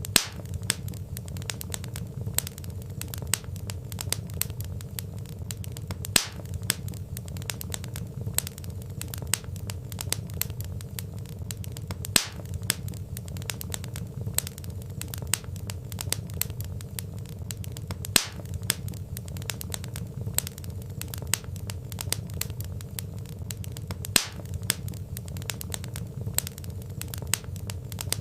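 Wood fire crackling in a fireplace: a dense run of small snaps and pops over a low steady rumble, with a louder pop about every six seconds.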